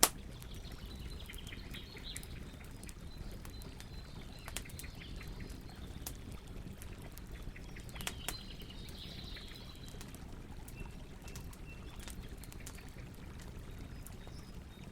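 Campfire crackling, with scattered sharp pops over a steady low rush. One loud pop comes right at the start. Birds chirp in the background, most clearly about a second in and again around eight to ten seconds.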